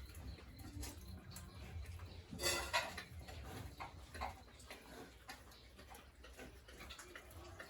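Pigs in a pen: scattered knocks and clatter, with a short, loud, pitched pig cry about two and a half seconds in.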